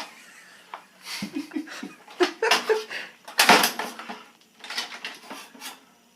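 Hard plastic parts of a Keurig coffee maker clattering and knocking as they are handled, a string of separate knocks with the loudest about three and a half seconds in. A few brief vocal sounds come between them.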